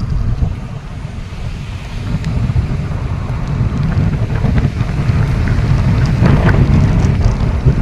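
Waterfall's rushing water with wind buffeting the microphone in heavy low gusts.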